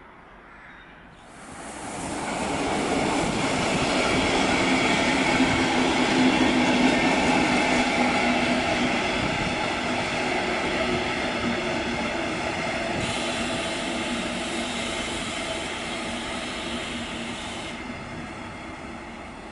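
Diesel-hauled passenger train of ALEX coaches rolling past: the loud, steady rumble of engine and wheels starts abruptly about a second in, then slowly fades as the train pulls away.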